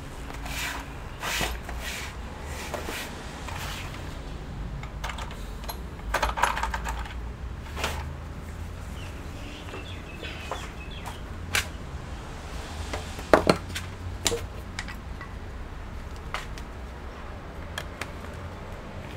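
Scattered small clicks and taps of a screwdriver and small plastic and metal parts as the internal battery of an open laptop is unscrewed and disconnected, with sharper clicks about six and thirteen seconds in, over a low steady hum.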